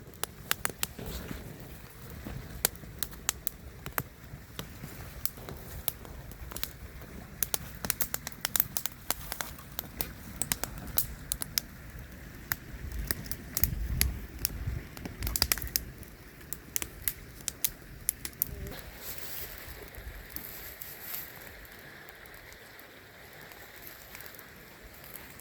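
Wood fire crackling, with many sharp, irregular pops that thin out over the last few seconds.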